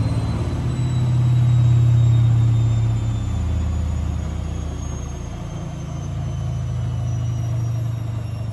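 Privileg washing machine on its spin cycle: a low drum rumble that swells about two seconds in, under a thin motor whine that falls slowly in pitch as the drum slows.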